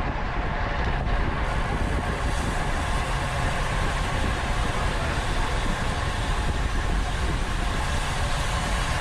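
Steady rush of wind over the microphone of a camera on a road bike ridden at race speed, strongest in the low rumble, with the hum of tyres and drivetrain underneath.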